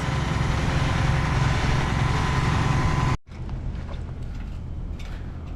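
Engine of heavy machinery running steadily at a constant speed. About three seconds in it cuts off abruptly, and a quieter, more distant engine rumble with faint clicks follows.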